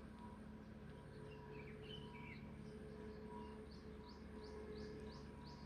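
Faint birdsong: a dark-capped (common) bulbul calling in short phrases. In the second half, a quick run of about six short rising notes.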